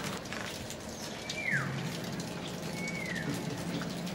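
A bird gives two short whistles, each sliding downward in pitch, about a second and a half apart, over a steady background hiss.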